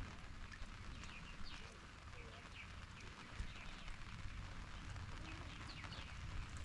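Faint bird chirps: a few short, falling notes, in a group about a second in and again near the end, over a low steady rumble.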